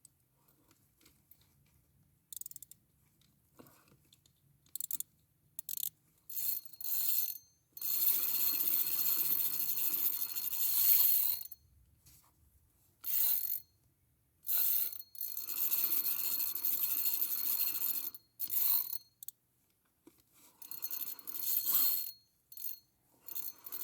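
Fishing reel cranked in repeated bursts of one to a few seconds, a gear-driven whirring and clicking with short pauses between, as a hooked fish is reeled in.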